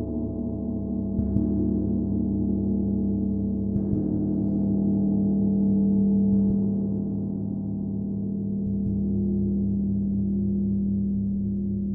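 Gong played softly with a mallet, struck three times about two and a half seconds apart. Between and after the strikes, its deep hum rings on with a slow throb.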